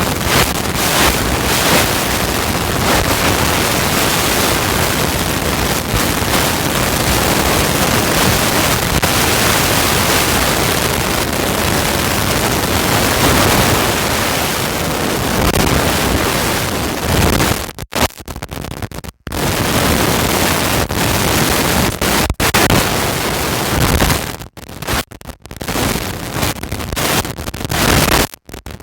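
Loud, steady rushing noise over the microphone, cutting out abruptly several times in the last ten seconds or so.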